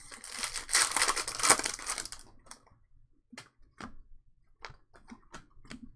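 Trading-card pack wrapper crinkling and tearing for about two seconds, then scattered light clicks and ticks of cards being handled.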